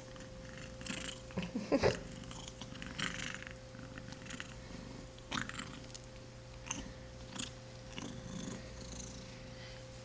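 Young kitten purring while being petted, with irregular soft rustles and clicks of fur and handling, the loudest cluster about two seconds in. The kitten has a congested nose from a respiratory illness.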